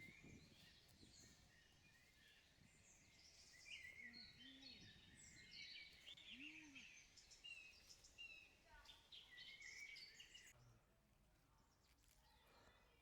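Faint outdoor ambience with many small bird chirps and calls, which stop near the end.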